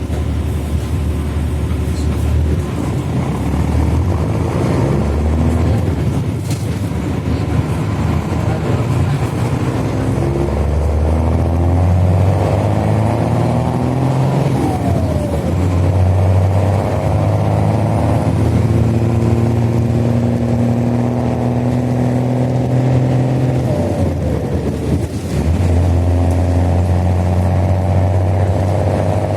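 Diesel engine of a Mercedes-Benz OH-1420 city bus running through an open, free-flowing exhaust, pulling hard under acceleration. Its pitch climbs steadily and drops at a gear change about halfway, then again near the end.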